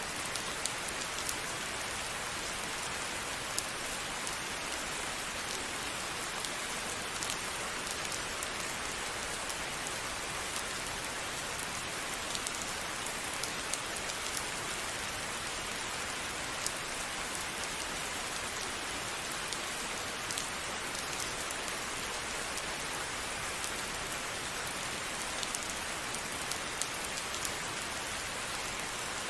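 Steady rainfall: an even hiss of rain with scattered individual drops ticking on a hard surface.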